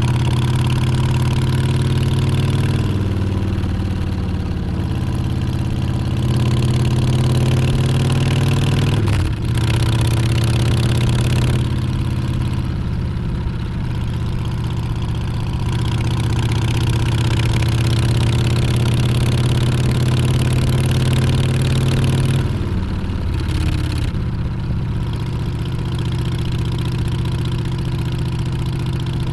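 Harley-Davidson Street Bob's Milwaukee-Eight 114 V-twin running under way. Its note climbs as it accelerates, breaks briefly about nine seconds in at a gear change, holds steady, then drops back as the throttle eases about twenty-two seconds in.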